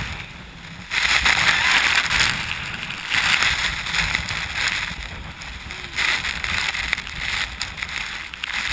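Kayak paddle strokes dipping into and pulling through the water, a splashing slosh repeated about every second and a half.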